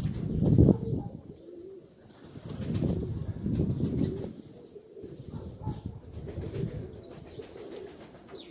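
Nikolaev pigeons cooing, in repeated low swells.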